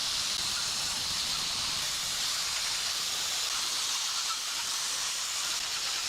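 Steady high-pitched hiss of compressed air escaping without a break.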